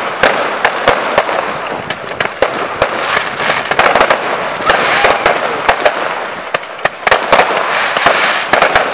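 Fireworks display: many sharp bangs from bursting shells in quick, irregular succession over a continuous crackle, easing briefly about six to seven seconds in.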